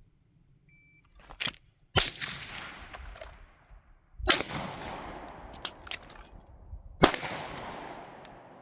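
Three gunshots about two to three seconds apart, each with a long echo that fades away, and a few lighter clicks between them.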